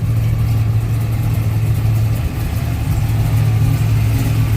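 A car engine running with a steady low note that holds the same pitch throughout.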